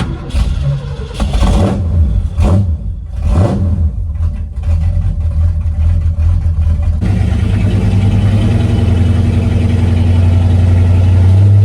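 1972 Ford F250's engine starting cold through its homemade NASCAR-style exhaust. It is blipped several times in the first few seconds, then settles into a steady run that climbs slightly in pitch toward the end.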